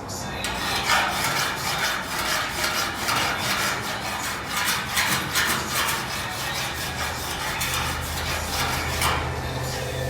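Hand file rasping over sheet metal in quick, irregular back-and-forth strokes, smoothing down a welded-up filler hole. A low steady hum comes in near the end.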